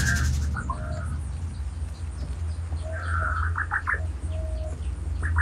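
Bird calls: short chirps and clusters of quick notes, busiest past the middle, over a steady low drone.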